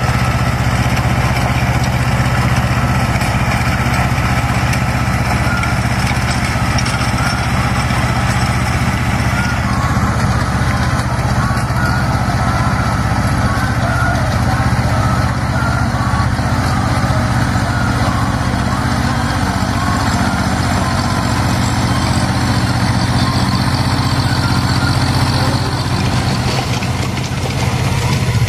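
Mahindra Jivo 245 DI mini tractor's two-cylinder diesel engine running steadily.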